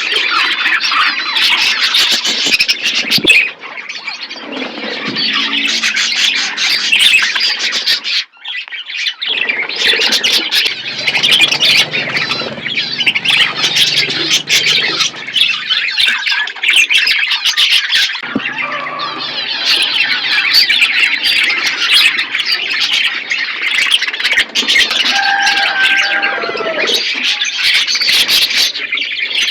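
Parrots chattering and squawking continuously in a dense, busy din of calls, with a brief break about eight seconds in.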